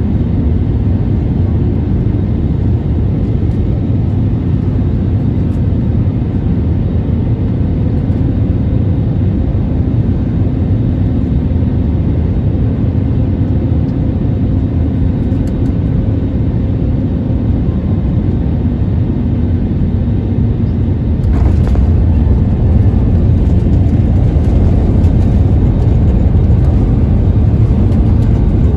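Cabin noise of an Airbus A320-251N with CFM LEAP-1A26 engines landing: a steady low rumble of airflow and engines with faint hums. About 21 seconds in, a sudden jolt of touchdown, after which the rumble turns louder and rougher as the jet rolls down the runway.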